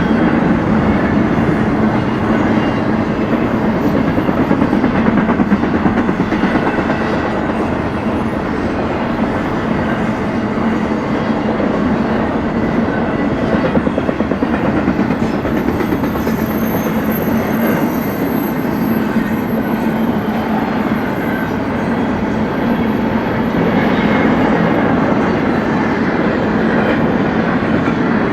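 Freight train cars rolling steadily past, a continuous rumble of steel wheels on rail with clickety-clack over the joints.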